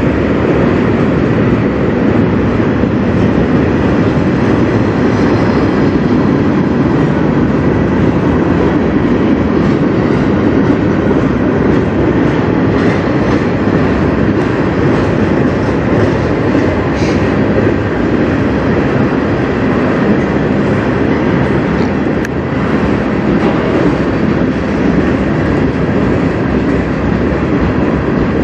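Freight cars of a manifest train rolling past close by, mostly open-top gondolas: a loud, steady rumble of steel wheels on the rails.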